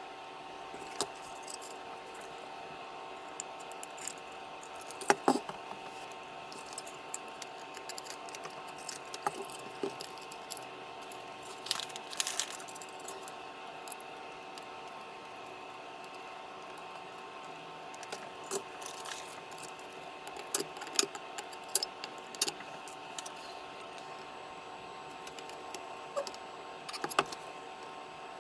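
Scattered light clicks and small metallic clinks, as of tools and small parts being handled on a workbench, over a steady hum of several fixed tones.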